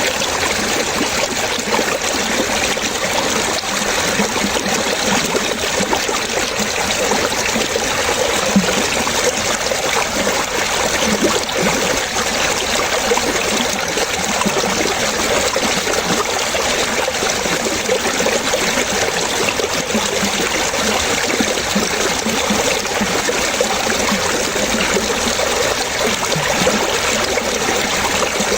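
Running water trickling and splashing steadily, like a small stream, with many small gurgles scattered throughout.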